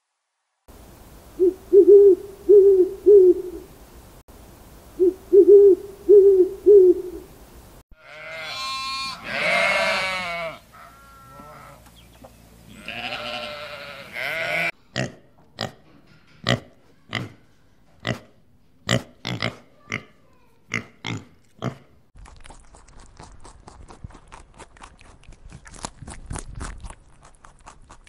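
A run of animal sounds: two groups of four low calls, then a lamb bleating twice, then a series of sharp clicks about one and a half a second, and faint crackling near the end.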